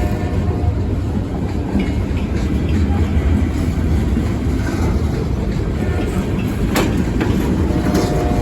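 Loaded freight cars of a South Carolina Central local rolling past at close range, a steady rumble with wheels clacking over the rail joints and a sharp clank about two-thirds of the way through.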